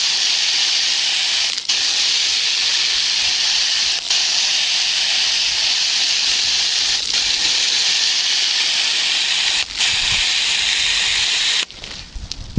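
Hose sprayer of the eZall bathing system spraying wash solution onto a horse's coat in a steady hiss. The spray breaks off briefly four times and shuts off near the end.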